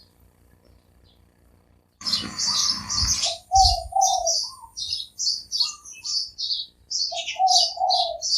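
Spotted dove cooing, two short phrases of about three low coo notes each, with small birds chirping high and fast over them. A brief rustling noise comes just before the first phrase.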